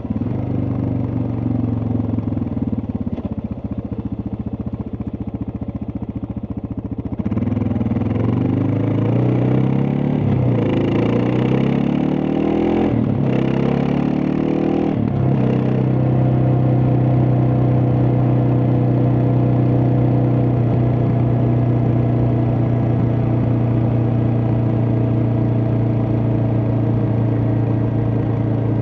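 Suzuki DR650's single-cylinder four-stroke engine under way: running at low revs at first, then about seven seconds in it accelerates, the pitch climbing and dropping back through three upshifts, before settling into a steady cruise.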